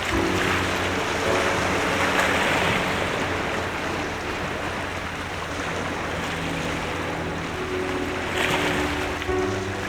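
A steady rushing noise that swells and eases, like waves washing in, under soft background music with long held notes.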